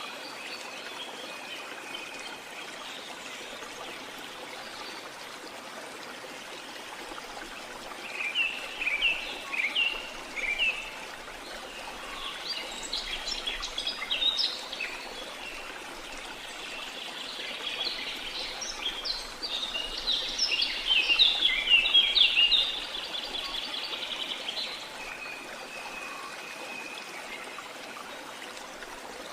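Rainforest ambience: a steady rush of falling water, with birds chirping in several bursts that grow busier and loudest past the middle.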